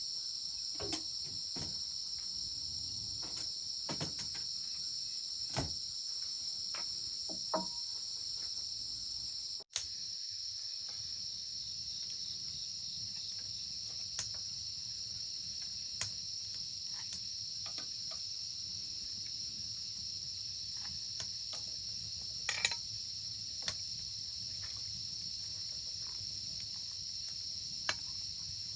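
Steady high-pitched chorus of crickets, with scattered light clicks and knocks over it. The sound breaks off for an instant about ten seconds in.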